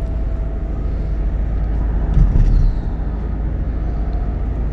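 Car interior road noise while driving: a steady low rumble of engine and tyres, with a brief louder low thump a little over two seconds in.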